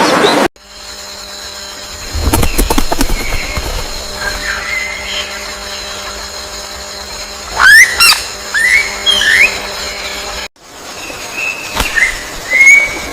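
Birds calling in short, rising whistled chirps, several in quick succession about eight seconds in and more near the end, over a faint steady hum. The sound cuts off abruptly about half a second in and again about ten seconds in.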